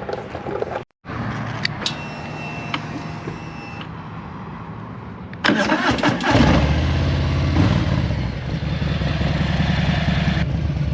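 Harley-Davidson Softail Standard's V-twin engine being started: the starter cranks briefly about halfway through, then the engine catches and idles.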